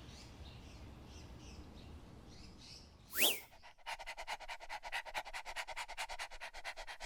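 Faint bird chirps, then a cartoon whoosh that sweeps up and back down in pitch about three seconds in, followed by a dog panting quickly, about six breaths a second.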